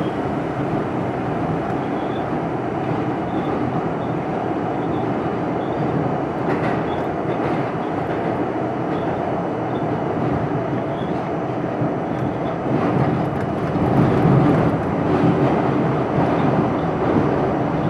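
R42 subway train running along the track, heard from inside the car: a steady rumble of motors and wheels with scattered clicks over the rail, getting louder about two-thirds of the way through.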